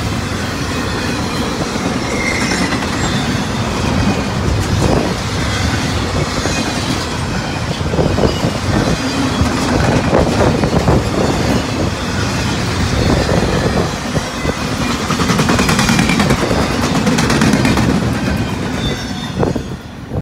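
Double-stack intermodal freight cars rolling past at speed: steady rumble of steel wheels on rail with repeated clacking over the rail joints. The sound falls away in the last second as the end of the train goes by.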